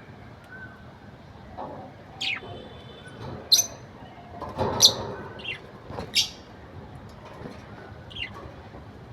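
Budgerigar calling: about six short, sharp chirps at uneven intervals, with a brief burst of muttering chatter about halfway through.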